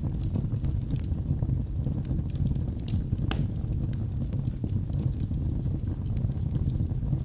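Wood fire burning in a fireplace: a steady low flame noise with scattered sharp crackles and pops from the burning logs, one louder pop about three seconds in.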